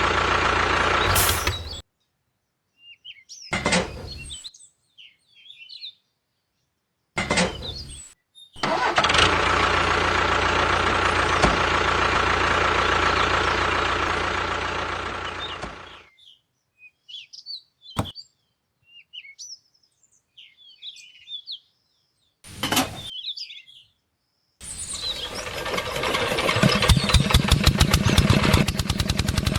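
A DIY mini tractor's small motor running in several short stretches, each cut off abruptly. It ends with a fast, even putter. Birds chirp faintly in the gaps between.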